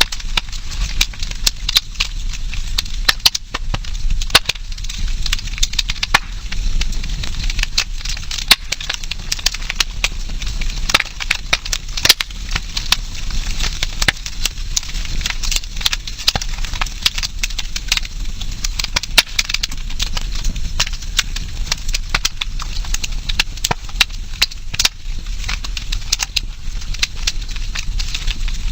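Campfire crackling, with dense irregular snaps and pops of burning wood over a steady low rumble.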